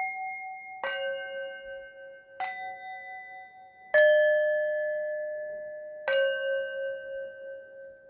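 Bell-like chimes struck four times at uneven intervals, each note a different pitch that rings on and slowly fades, the last still sounding near the end.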